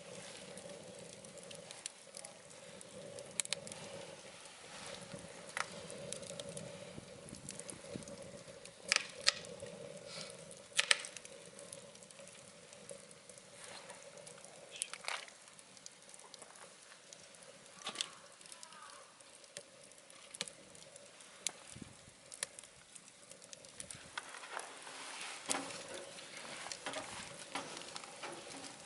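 Wood fire crackling in a wood-burning stove: irregular pops and snaps over a soft hiss, with a few louder pops about nine and eleven seconds in. The firewood is scrap lumber from renovation work. A faint steady hum sits under it for much of the time.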